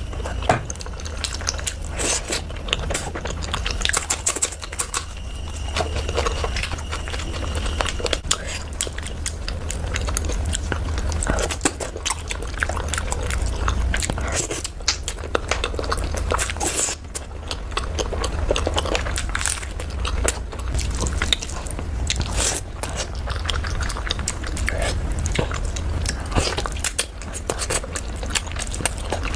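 Close-miked chewing and biting: a person eating chicken curry with rice, with many small irregular mouth clicks.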